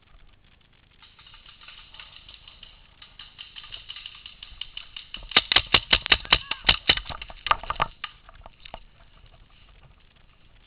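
Paintball markers firing in rapid succession: faint quick shots build over the first few seconds, then a loud volley of about a dozen shots, roughly five a second, between about five and eight seconds in.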